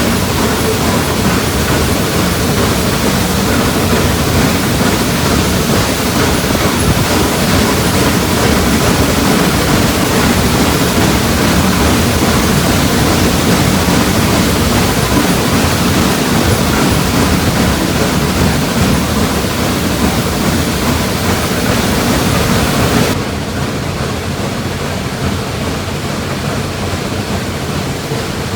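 Steady rushing noise of a moving train, with a low rumble underneath. It drops abruptly to a quieter level about 23 seconds in.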